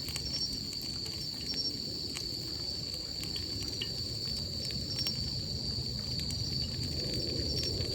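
A steady, high-pitched chorus of crickets or similar insects, with scattered light crackles and clicks over a low, even background noise.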